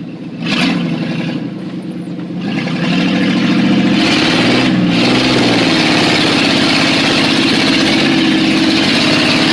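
1991 Chevy 1500 pickup's engine running under load in four-wheel drive through mud, revving up about two and a half seconds in and holding there, with a steady hiss over the engine from about four seconds in.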